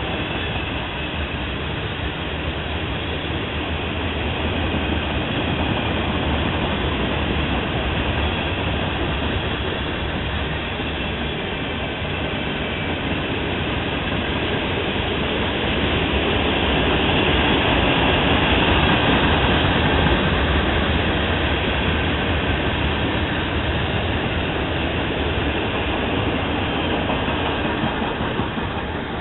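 Freight train cars (covered hoppers, boxcars and lumber-loaded centerbeam flatcars) rolling past on the track: a steady rumble and rattle of wheels and car bodies. It swells a little in the middle and falls away near the end as the last car goes by.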